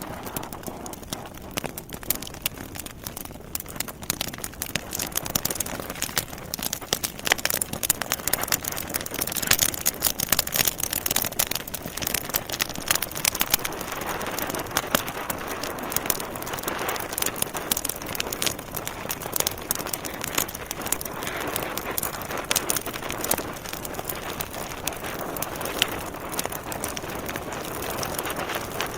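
Wood fire burning in a fireplace, logs crackling and popping in irregular sharp snaps over a steady rush of flame, with the snaps thickest in the first half.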